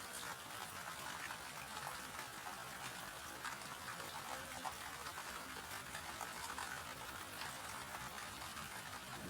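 Steady rain falling, with many separate drops heard as small clicks through an even hiss.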